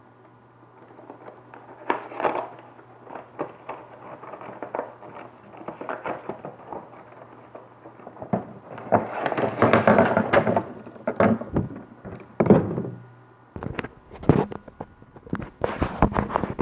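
Hands opening a Hot Wheels 5-pack's cardboard and plastic blister packaging: a string of clicks, cracks and knocks, with a denser stretch of rustling and tearing around the middle.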